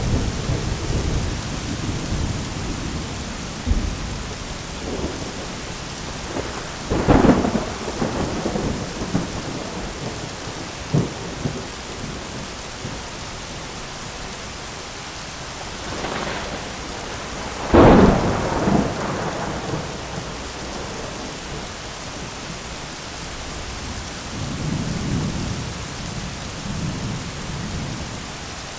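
Thunderstorm: steady rain hiss with thunder, rumbling low at first, a sharp crack about a quarter of the way in, a smaller one shortly after, the loudest crack a little past the middle, then a low rolling rumble near the end.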